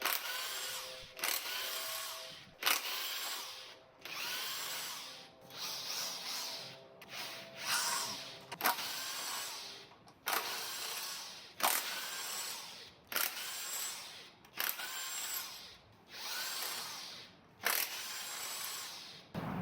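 Handheld power tool, a drill or driver type, running in about a dozen short bursts of roughly a second each, spinning bolts out of a GM 3.6 V6 engine being torn down.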